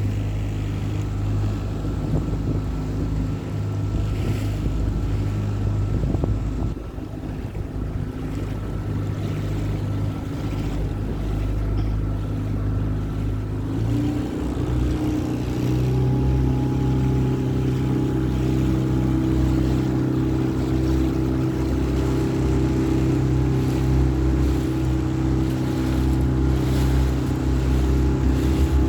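Small hire motorboat's engine running steadily, then opened up about halfway through: its note steps up in pitch and gets louder, and it holds there.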